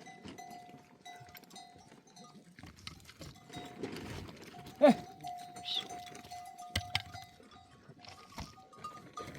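Bells on grazing sheep and goats ringing on and off, with a short rising animal call about five seconds in.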